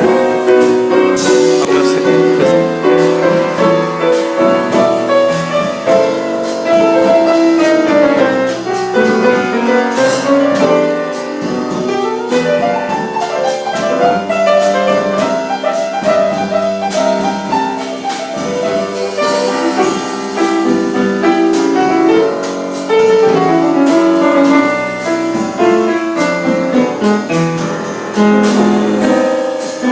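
Live jazz piano taking an instrumental solo, with light drums keeping time underneath.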